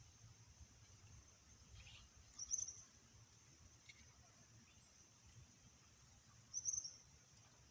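Steady high-pitched insect chorus of crickets, with two brief louder chirps, one about two and a half seconds in and one near the end.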